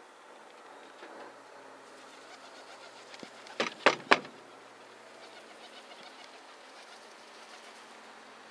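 A bird gives three short, loud calls in quick succession about halfway through, over a faint steady low hum.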